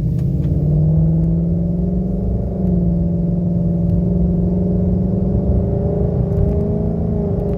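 2019 Mustang GT's 5.0 L V8 with a Pypes H-pipe exhaust, in normal exhaust mode, heard from inside the cabin as the car pulls up to highway speed; a steady low exhaust drone whose pitch climbs slowly.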